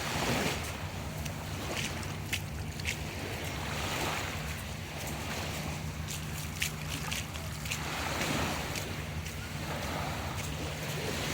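Bare feet splashing through shallow seawater in short, irregular slaps, over small waves washing in and swelling every few seconds.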